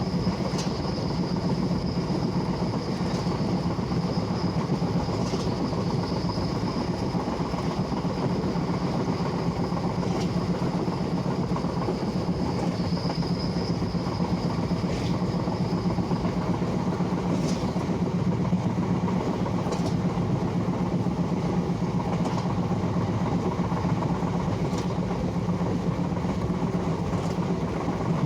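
Train running on the rails with a steady rumble, a faint click about every two and a half seconds, and a thin high whine that fades out a little past halfway.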